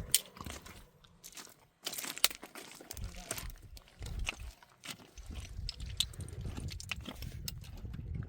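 Irregular crunching and sharp snapping sounds, with a louder stretch of crackling about two seconds in.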